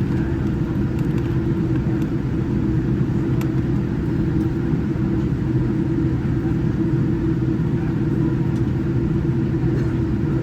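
Steady low rumble of cabin noise inside a Boeing 787-9 airliner, with a few steady hum tones in it and one faint click about three and a half seconds in.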